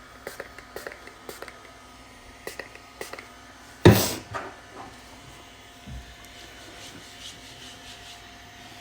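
Handling noise: light clicks and small knocks from hard objects being moved and set down, with one sharp, loud knock about four seconds in and a few softer ones after.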